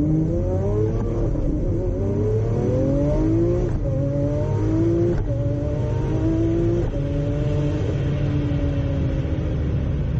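Twin-turbocharged Lamborghini Aventador V12 accelerating hard at full throttle. The engine pitch climbs through the gears, dropping abruptly at each upshift about 1, 3.7, 5.2 and 7 seconds in, then holds nearly steady near the end.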